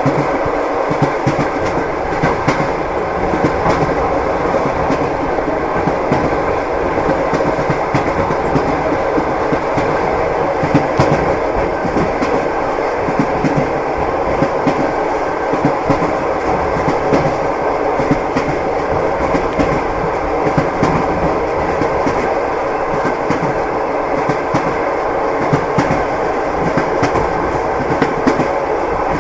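Passenger train wheels clattering over the rails, heard from inside a compartment car: a steady rumble with continual clicking and knocking.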